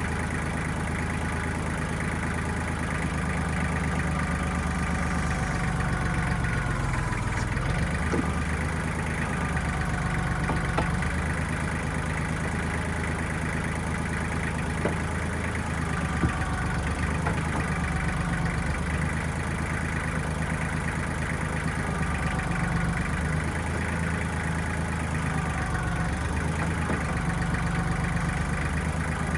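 1995 Kubota backhoe's diesel engine running steadily, its speed dipping and picking up again about a quarter of the way in, with a few short sharp knocks scattered through.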